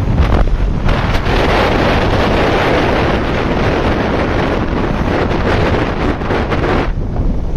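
Heavy wind noise rushing over the microphone of a moving motorcycle, dense and steady, easing briefly near the end.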